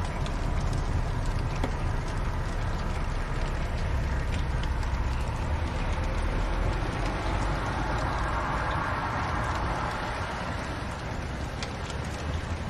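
Wood fire burning in a fireplace: a steady crackling hiss over a low rumble, with scattered sharp pops.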